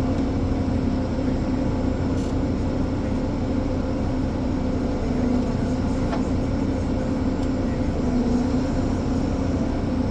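Ponsse Elephant forwarder's diesel engine running at a steady speed, an even drone with a constant hum, and a couple of faint clicks about two and six seconds in.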